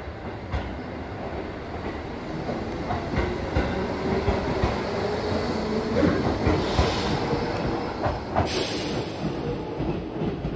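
Iida Line electric train running on the rails, wheels clicking over the rail joints as the sound slowly grows louder, with a short high hiss about eight and a half seconds in.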